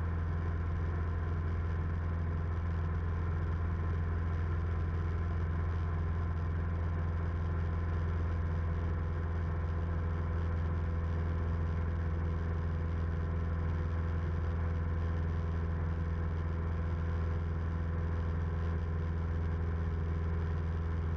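Steady drone of a 1976 Cessna 172M's four-cylinder Lycoming O-320 engine and propeller in flight, heard from inside the cabin, holding an even power setting.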